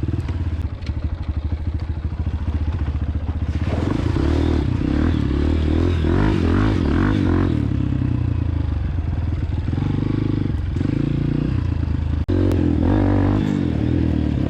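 Honda CRF230F dirt bike's single-cylinder four-stroke engine running under way, its pitch rising and falling with the throttle. A single sharp knock about twelve seconds in.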